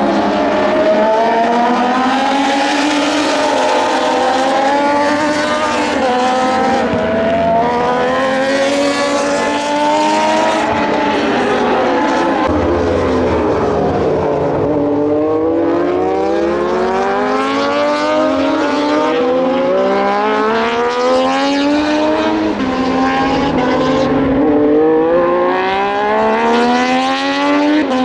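Moto2 race bikes with Triumph 765 cc three-cylinder engines passing at racing speed, several in close succession, their engine notes climbing through upshifts and dropping on downshifts.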